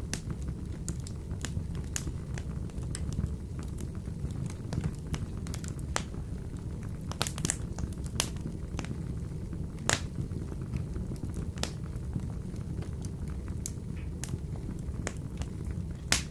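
Wood fire burning in a wood-burning stove: a steady low rumble of flame with irregular sharp crackles and pops, the loudest about ten seconds in and again near the end.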